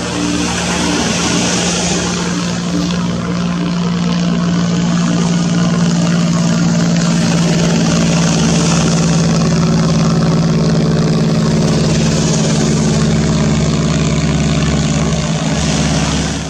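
Engine running steadily at a constant pitch, with a low even hum and a hiss of noise over it.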